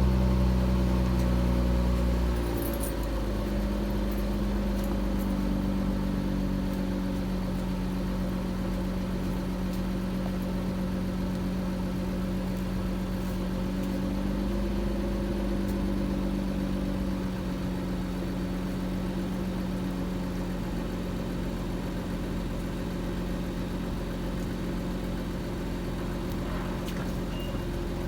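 Infiniti Q50 Red Sport's twin-turbo V6 running at cold-start fast idle through Megan Racing downpipes and the stock exhaust. The engine is loud at first; about two and a half seconds in, its pitch shifts and it settles into a steady high idle that slowly quiets.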